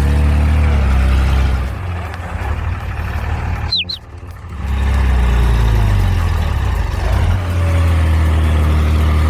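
A heavy engine running with a steady low rumble; it fades briefly near the middle and then comes back. There is one short high chirp near the middle.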